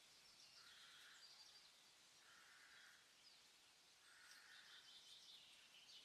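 Faint bird chirping over a low outdoor hiss, with three short lower-pitched calls spaced about a second and a half apart.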